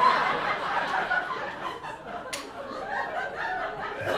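Live audience laughing and chuckling. There is one brief sharp click about halfway through.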